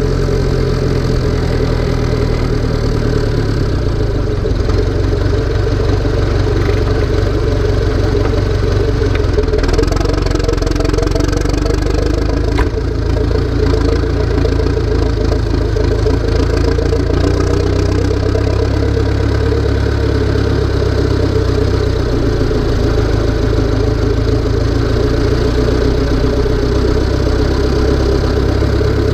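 Tractor diesel engine running steadily, its low note shifting slightly now and then.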